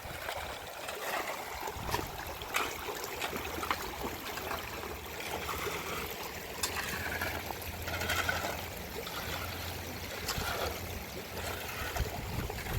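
Running, trickling water with scattered sharp ticks throughout.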